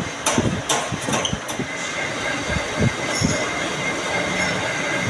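Metal lathe running with a steady machining noise and a thin high tone, as of a tool cutting metal. Several sharp metallic knocks come in the first second and a half.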